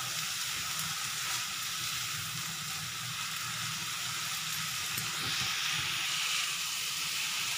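Chopped vegetables sizzling in oil in a non-stick kadai as they are sautéed for upma and stirred with a plastic spatula: a steady frying hiss that grows a little brighter about five seconds in.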